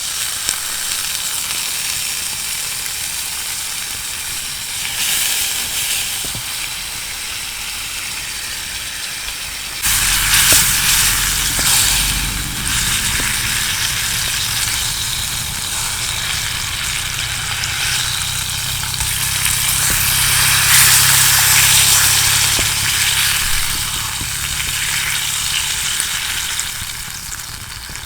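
Food sizzling in a frying pan, a steady frying hiss that gets louder and fuller about ten seconds in.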